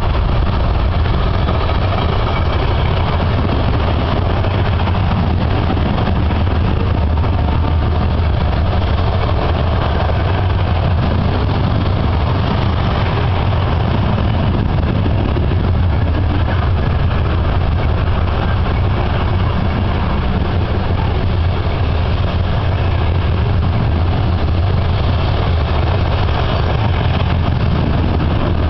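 Long freight train of covered hopper cars rolling past, a loud, steady rumble of wheels on rails.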